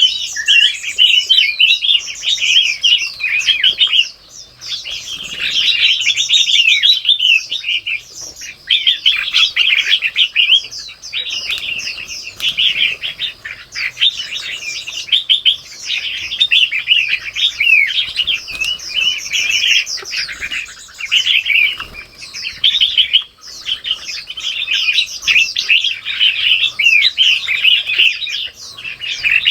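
Many small birds chirping and twittering in a dense, continuous chorus of rapid high chirps, with a few short lulls.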